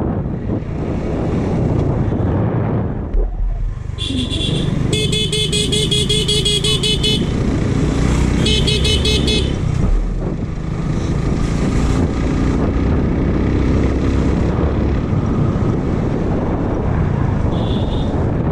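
Motorcycle ride with steady wind and engine noise, cut by a vehicle horn honking in rapid pulses for about three seconds, again for a second or so shortly after, and once briefly near the end.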